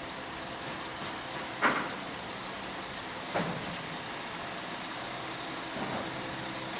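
Truck engine running steadily while the truck lowers an empty mortar silo, with a few metallic knocks about one and a half, three and a half and nearly six seconds in.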